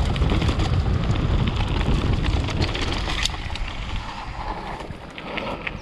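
Wind buffeting the microphone and the rumble of a downhill mountain bike rolling over the trail, with scattered sharp rattling clicks from the bike. The noise fades over the last few seconds as the bike slows.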